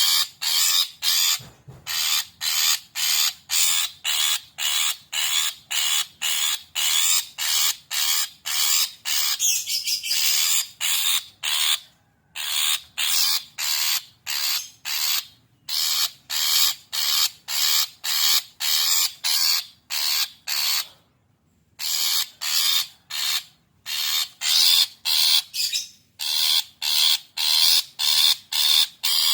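Long-tailed shrike calling in an excited, agitated way: a rapid run of harsh, rasping notes, about three a second, broken by a few short pauses.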